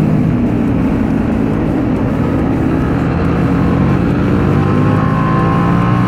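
Sport motorcycle engine running at a steady pitch while riding, heard from on the bike.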